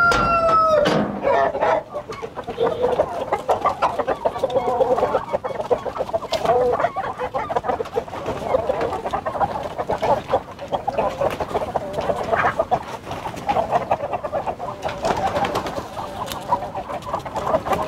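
A flock of Australorp chickens clucking busily and continuously as they stream out of an opened coop, many short calls overlapping.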